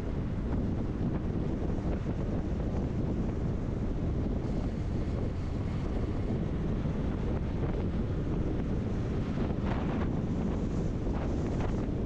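Steady low road and wind rumble from a motorhome driving along the road, heard on board. Brief noisier swells come about ten seconds in and again near the end.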